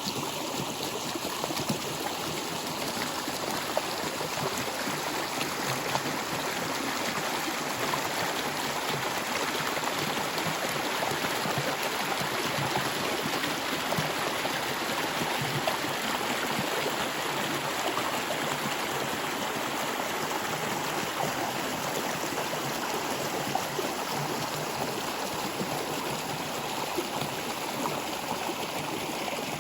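Stream water flowing and gurgling in a steady rush.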